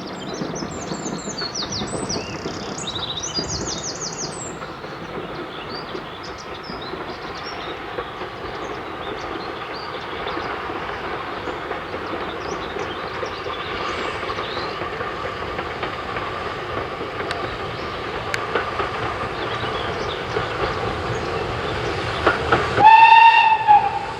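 Steam train running past with a steady rumble and clatter of wheels on the rails, then a short steam-whistle blast of about a second near the end, the loudest sound. Birds chirp over the train in the first few seconds.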